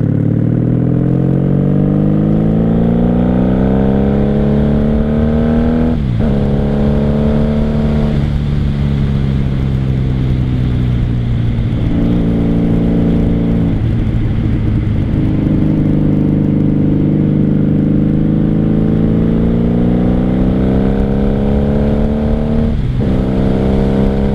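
Motorcycle engine under way, rising in pitch as it accelerates. It shifts up about six seconds in and again about eight seconds in, then holds steady. It eases off partway through and climbs again, with another upshift near the end.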